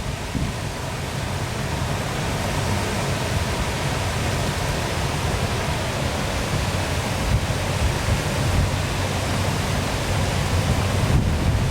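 Waterfall: the steady rushing of falling water, an even, unbroken hiss with a low rumble underneath.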